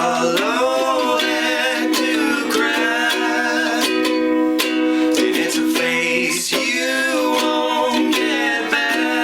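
Ukulele strummed in a steady, quick rhythm, playing the instrumental stretch of a pop song.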